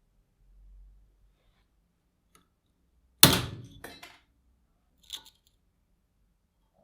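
Hard knocks of objects being handled on a workbench: one loud knock about three seconds in with a short ringing tail, a softer knock just after it, and a light click about two seconds later.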